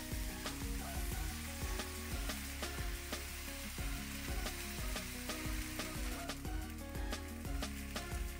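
Shredded cabbage sizzling in a hot nonstick frying pan, stirred and tossed with a spatula, over background music.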